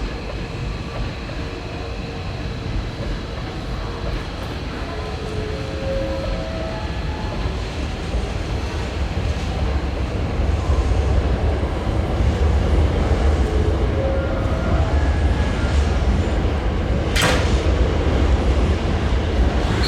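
Hankyu electric train running on the tracks at the station, a steady rumble that slowly grows louder, with a sharp click about seventeen seconds in.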